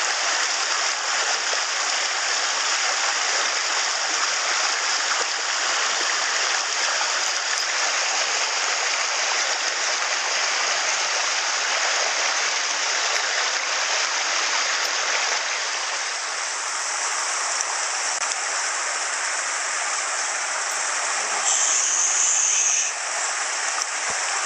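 Shallow stony stream's water running over rocks, a steady rushing hiss. A brief louder, brighter hiss comes about three-quarters of the way through.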